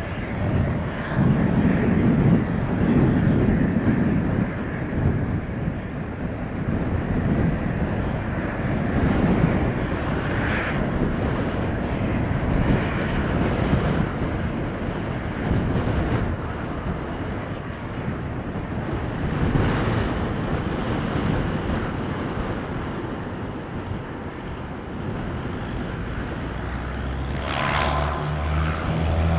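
Piper Seminole light twin piston-engine airplane running on its takeoff, heard as a steady engine rumble with wind on the microphone. Near the end the engines' droning propeller tones come through clearly.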